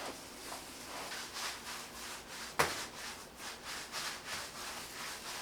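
Hands rolling and twisting doughnut dough on a wooden work board, a repeated rubbing swish, with one sharp knock a little past halfway.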